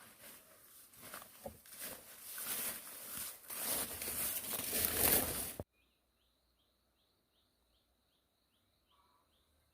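Rustling and crackling noise, full of small clicks, that grows louder and then cuts off abruptly a little over halfway through. After it comes a faint train of short, high, falling chirps from a small bird or insect, about three or four a second.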